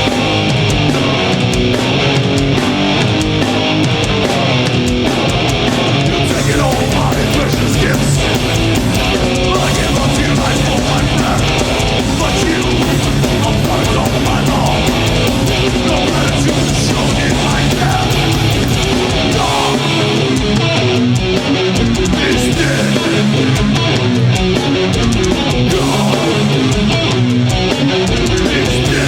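Heavy metal band playing loud and live: distorted electric guitar riffs over bass and pounding drums.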